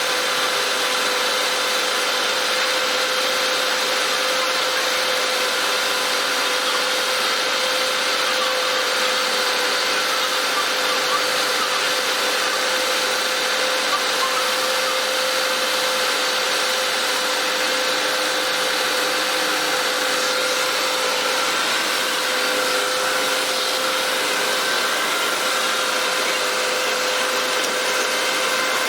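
Fire truck machinery running at a constant speed, a steady mechanical whine with a hum, as from the apparatus's engine and hydraulic pump working the aerial ladder.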